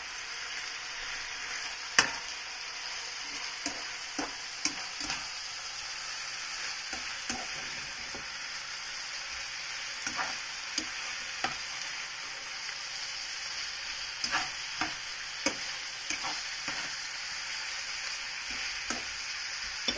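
Leftover roast chicken pieces and sliced onion frying with a steady sizzle in the fat the chicken has released, while a slotted metal spatula stirs them, clicking and scraping against the pan; the sharpest knock comes about two seconds in.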